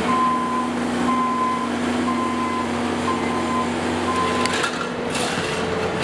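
A vehicle's reversing alarm beeping about once a second, five single-tone beeps, over a steady low hum.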